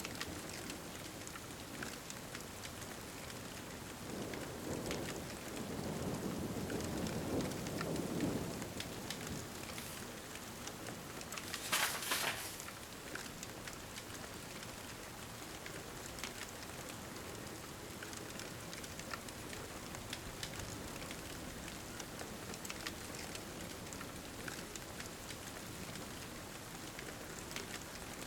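Steady rain, with a low roll of thunder swelling between about four and eight seconds in. Faint scattered crackles of a wood fire sit under the rain, and a short, sharp noise stands out about twelve seconds in.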